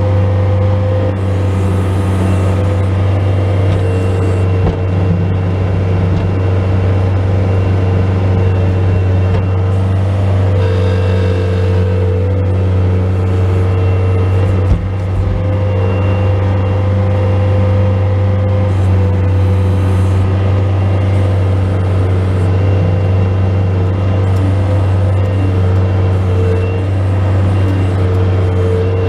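Bobcat S185 skid steer loader's diesel engine running steadily at working revs while plowing snow, with a whine that shifts slightly in pitch over it. One short knock about halfway through.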